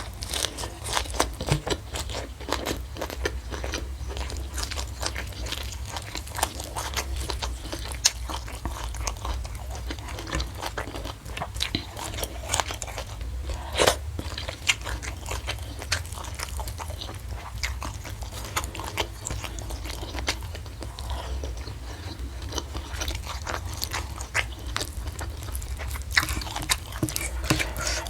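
Close-miked chewing and biting of crunchy food, many sharp crisp crunches one after another over a steady low hum.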